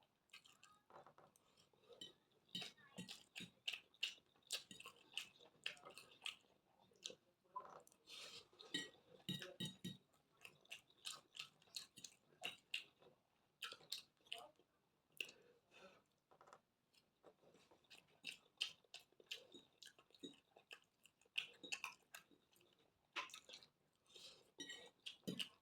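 A person chewing food close to the microphone, heard as many short, irregular clicks and crunches.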